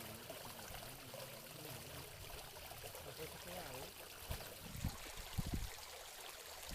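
Water trickling and running steadily, with a few dull low thumps between about four and five and a half seconds in.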